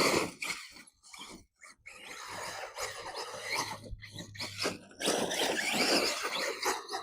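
ARRMA Typhon 6S RC buggy driving over dirt in bursts of throttle: a rough rushing noise from the motor and tyres that keeps cutting in and out.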